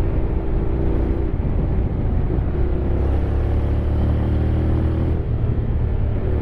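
Honda X-ADV 750 parallel-twin engine running while riding at speed, a steady low rumble. The engine note shifts in pitch a few times as the speed changes.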